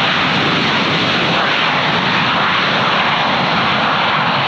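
Airliner jet engines running in a loud, steady roar.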